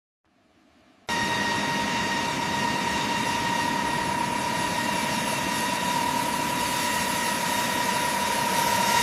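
Aircraft turbine engine running after spool-up: a steady high whine over broad engine noise. It starts abruptly about a second in and holds at an even level.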